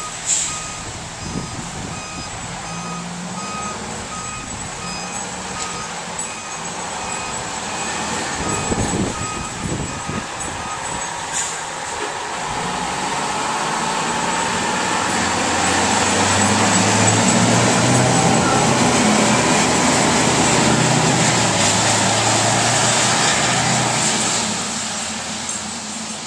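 A truck's reversing alarm beeping about twice a second for the first ten seconds or so. Then a heavy engine grows louder, runs steadily, and fades near the end, over a constant hiss of storm wind and rain.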